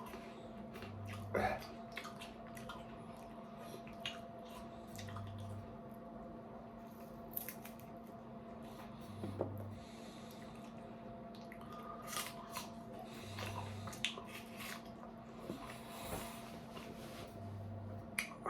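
Close-up chewing of an apple: scattered crisp crunches and wet squishing bites, over a steady electrical hum. A short low pulse recurs about every four seconds.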